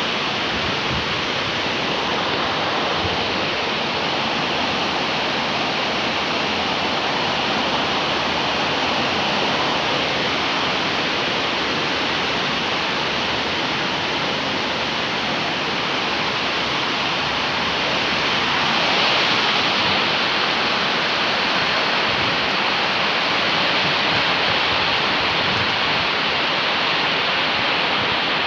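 Rain falling in a steady, even hiss, swelling a little about two-thirds of the way through.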